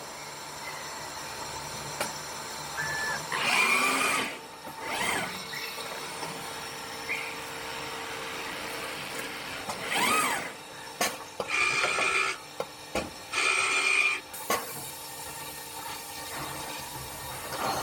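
CNC stone-working machine running: a steady mechanical hum, broken by several louder bursts, one with a whine that glides up and down and two with short steady whines.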